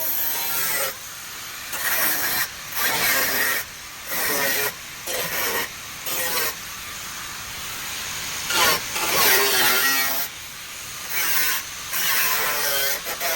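A hand-held bodywork tool rasping and scraping on the car body in short bursts, each starting and stopping abruptly.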